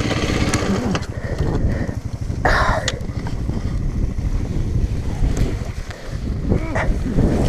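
Small trail motorbike engine running with a steady low pulse under wind noise on the microphone, with a short noisy burst about two and a half seconds in.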